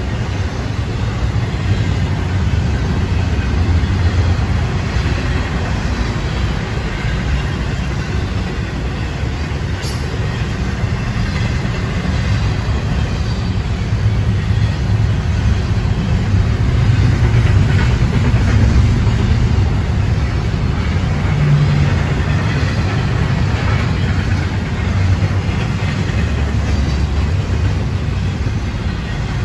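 Florida East Coast Railway intermodal freight train's cars rolling past, a steady low rumble of wheels on rail.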